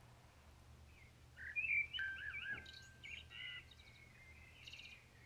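Bird song: a run of short warbling chirps and whistled notes, starting about a second in and continuing until near the end.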